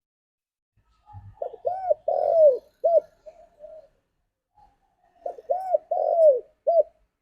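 Spotted dove cooing: two phrases of several arched coo notes, about three seconds apart.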